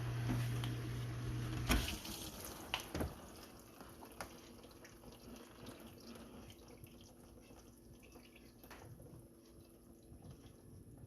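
Dishwasher running mid-cycle, its pump humming with water spraying, stopped by a sharp click about two seconds in as the door is unlatched. After that water drips and trickles inside the tub, with a few small clicks, fading away.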